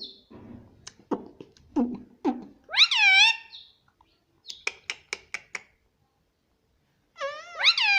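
Indian ringneck parrot vocalizing: a few short syllables that drop in pitch, a loud squawk that rises and falls about three seconds in, a quick run of clicks around five seconds, then another squawk near the end.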